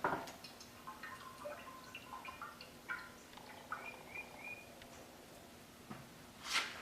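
Faint scattered ticks, creaks and a few short high squeaks from an aluminium piston under a hydraulic press as it cracks and its pieces settle, with one louder short scrape near the end.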